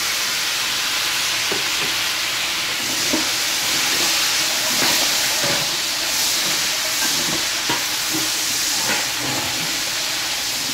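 Onions and freshly added chopped tomatoes sizzling loudly in hot oil in a large metal pot, the wet tomatoes making the oil hiss hard. A few light scrapes come from a metal ladle stirring.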